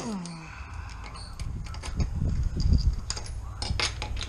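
An impact wrench winding down, its whine falling in pitch over the first half second, then scattered metal knocks, clicks and low thumps as wheel parts are handled.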